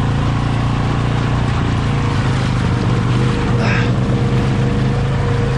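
ATV engine running at a steady speed, with a brief hiss about two-thirds of the way through.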